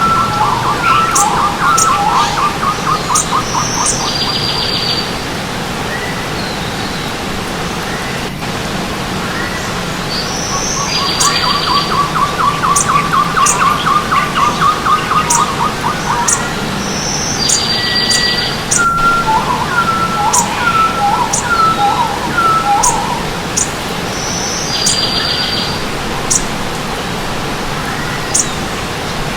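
Several forest birds singing over a steady rush of stream water: bursts of quick trilled phrases a few seconds long, with short high chirps and brief rattling calls between them.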